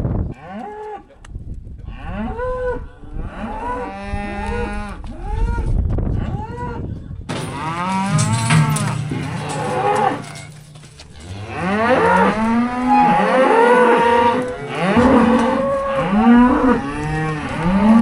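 A group of cattle mooing and bawling, many calls overlapping one another, growing more crowded and louder about halfway through.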